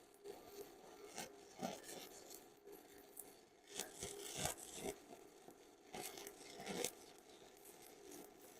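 Stick-welding arc burning a 7018 electrode: an irregular crackle and sputter, with louder surges about four and six seconds in.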